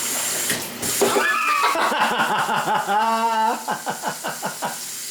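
A young child's voice making playful wordless sounds, with a held, sung-like note about three seconds in, followed by a run of quick clicks about four or five a second.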